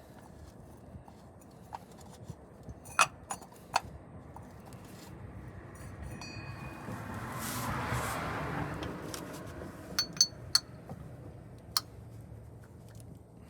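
Light metallic clinks and taps of tools and parts being handled: a few sharp ones about three seconds in, a cluster around ten seconds, and one more near the end. In the middle a broad wash of noise swells up and fades away.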